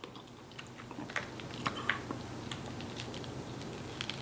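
A person chewing food close to the microphone: scattered soft, wet mouth clicks and smacks, irregular and fairly quiet, over a faint low hum.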